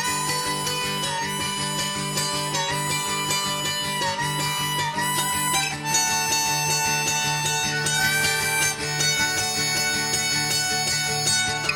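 Early-1970s rock band recording: a steady, repeating bass pattern and guitars under a lead line of long held notes that bend in pitch. The lead part changes about halfway through.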